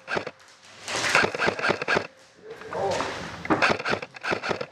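Voices with two bursts of rapid, sharp clattering knocks.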